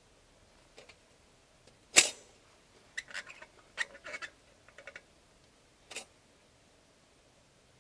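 Small hard objects being handled: one sharp knock about two seconds in, then a run of lighter clicks and knocks, and another click a little later.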